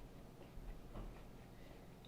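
Faint, crisp crunches of a yellow cucumber being chewed, as short irregular clicks several times a second.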